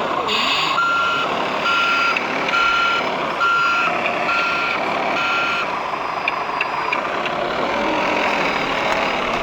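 Reversing alarm of a radio-controlled model truck beeping at an even pace, about one short beep every 0.8 seconds. The beeping stops a little past halfway, leaving background hubbub and a few light clicks.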